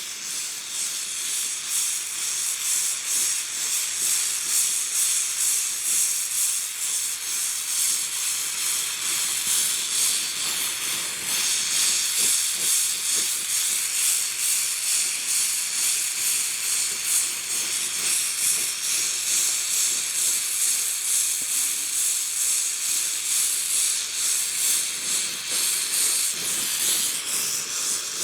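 Ambro Precision oxy-fuel brazing torch burning with a steady hiss while it heats a 3/4-inch copper joint for brazing.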